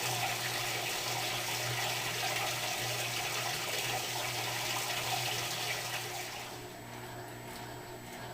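Electrolux LTR10 washing machine during its rinse, with water rushing through it and a steady hum of its motor or pump beneath. The rushing eases off about six and a half seconds in, while the hum continues.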